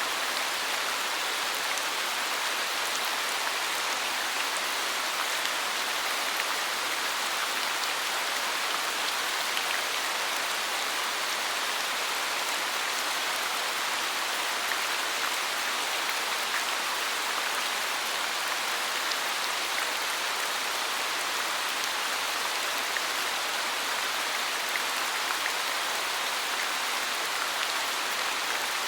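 Steady rain falling, a dense even hiss with fine scattered drop ticks and no change in strength.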